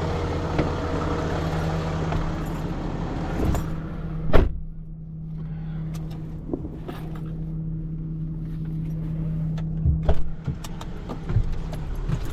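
Tow truck running steadily with a hiss over its hum. A loud clunk about four seconds in is followed by the hiss dropping away. A few metallic clanks come near the end.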